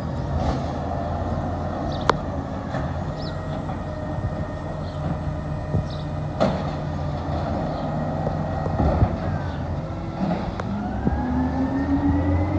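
Garbage truck engine running steadily, with a few sharp knocks and a rising whine starting about ten seconds in.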